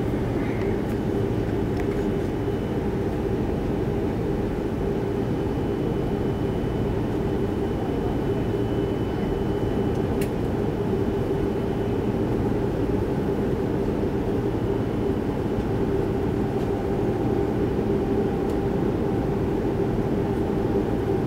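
Airbus A330-300 cabin noise with the engines running on the ground before takeoff: a steady low rumble and drone with a constant hum, as the airliner taxis. A few faint ticks sound in the cabin.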